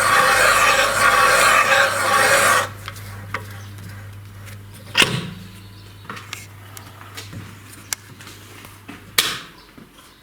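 Valve-seat cutting machine shaving a valve seat in a cylinder head: a steady scraping hiss of the cutter on the seat that stops a quarter of the way in as the cut finishes. The machine's low hum runs on, with two sharp metallic clinks, and stops near the end.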